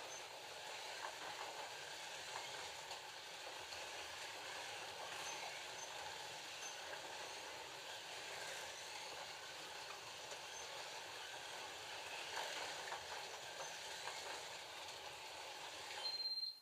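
FLY Classic slot cars with original 19K motors running on the track: a steady whirring hiss, with a short high beep near the end.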